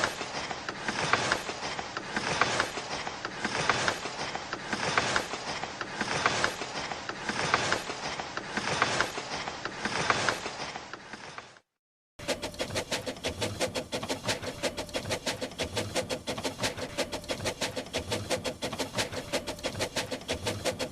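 Train wheels clattering over rail joints, a rhythmic clickety-clack with a burst about every 1.3 seconds. It stops about halfway through, and after a short break a second, faster and denser clatter follows with a steady hum under it.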